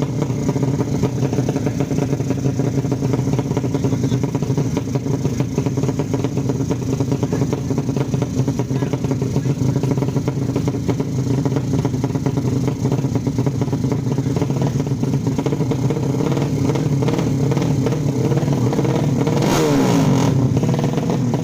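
155 cc drag-race motorcycle engines running steadily. Near the end a bike gets briefly louder, its pitch falling.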